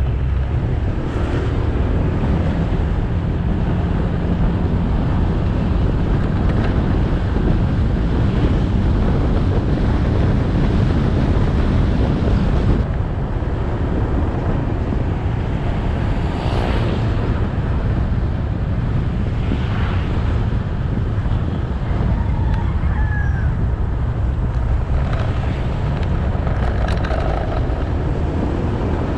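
Motorbike engine running under way, with wind rushing over the camera's microphone and road noise, steady throughout.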